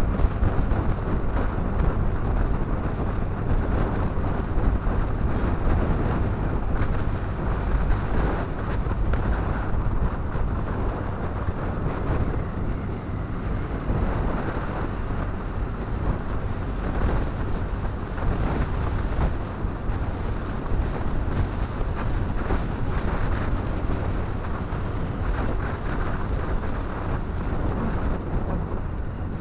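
Motorcycle riding noise: wind rushing over the microphone, with the motorcycle and the surrounding traffic running underneath, steady throughout.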